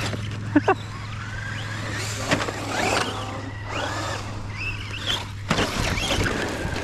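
Electric motors of Traxxas RC trucks whining up and down in pitch as they speed up and slow over a dirt track. There are two sharp knocks about half a second in.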